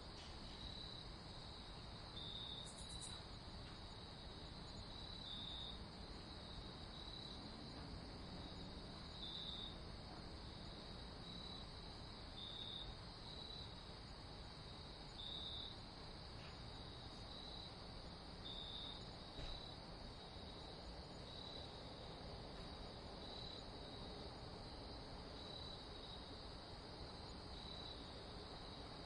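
Crickets chirping in a continuous high trill, with louder chirps every second or so, over a faint steady hiss.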